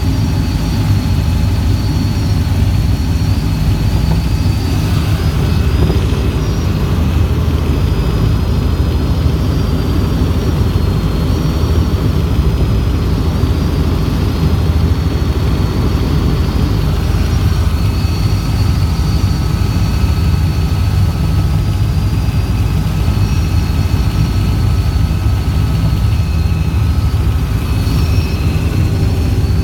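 Helicopter in flight: a loud, steady drone of rotor and turbine engines with a thin, high whine over it.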